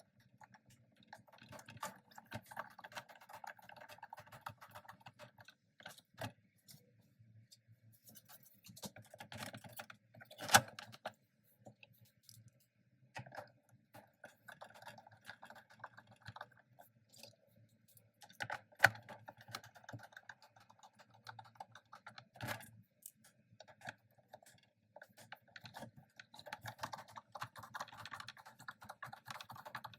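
Irregular clicks, taps and light rattles of hands handling and fitting the plastic parts and screws of a robot vacuum's lower base during reassembly, with a few sharper knocks about a third of the way in, past the middle and again a little later.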